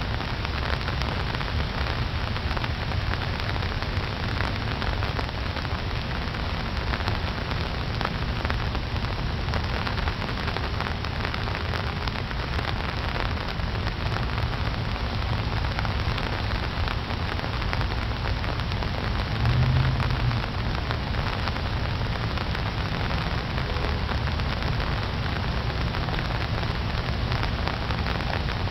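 Steady rain falling on a pond's open water: an even hiss of many fine drop patters over a low rumble. A brief low bump about two-thirds of the way through is the loudest moment.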